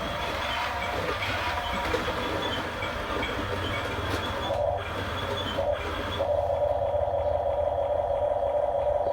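Electric motors and gearboxes of a Huina remote-control construction toy running with a steady whine, briefly breaking twice and then settling into a louder, smoother hum about six seconds in.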